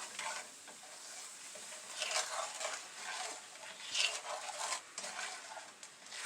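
Spoon stirring a simmering butter, brown sugar and cognac sauce in a pan, with irregular scraping strokes over a light sizzle.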